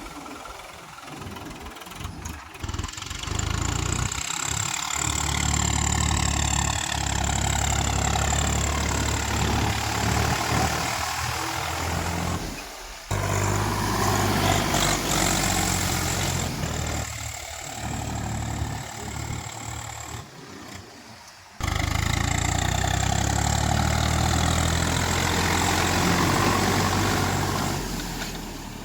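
Swaraj 744 XT tractor's three-cylinder diesel engine running, its level rising and falling, breaking off and coming back abruptly twice.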